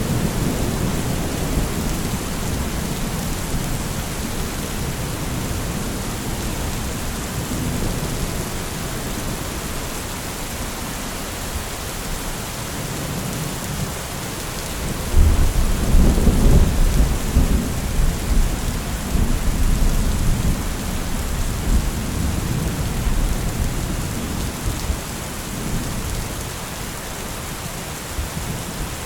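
Steady rain with a thunderstorm: a deep roll of thunder breaks out about halfway through and rumbles on, slowly fading, over the rain.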